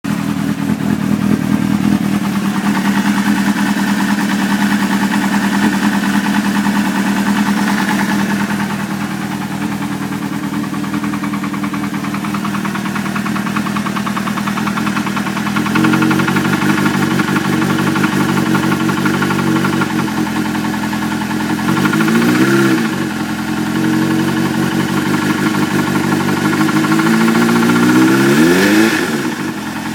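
Suzuki GSX-R600 inline-four engine idling, revved briefly twice in the second half. The owner hears an intermittent knock from the engine and suspects a spun bearing.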